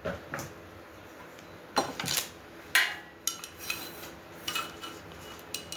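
Metal grill parts and hardware clinking and clanking as they are handled during assembly: a string of irregular sharp knocks, some with a short metallic ring.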